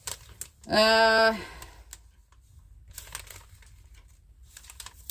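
A person's short, held one-note hum about a second in, followed by faint crinkling and light handling of grocery packaging.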